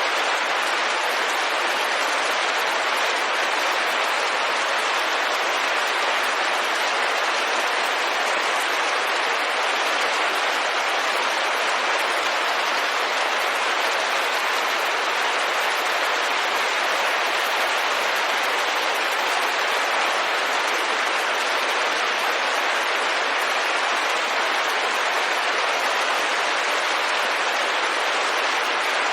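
Steady rain falling on a window glass, an even, unbroken hiss of drops with no change in strength.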